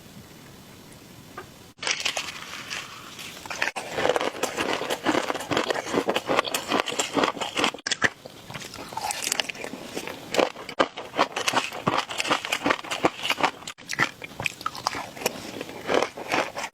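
Close-miked eating sounds: chewing with dense, rapid crunching and wet crackling that starts about two seconds in, after a faint hiss.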